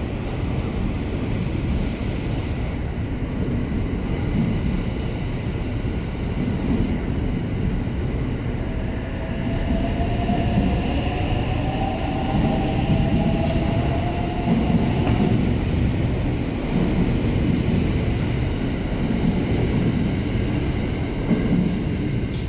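683-series electric limited express train pulling out and running along the rails: a steady rumble of wheels and cars, with a faint, slightly rising whine from about 9 to 15 seconds in.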